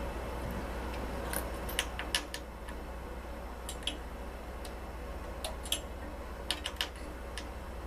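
Scattered light clicks and taps of tools and parts being handled while a part is changed on a Butterfly embroidery machine, in irregular clusters over a steady low hum.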